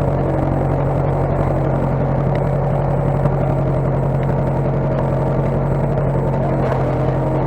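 Case skid steer engine running steadily at a constant speed.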